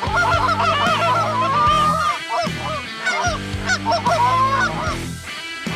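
A flock of Canada geese honking, many overlapping calls at once, over a low steady hum that starts and stops.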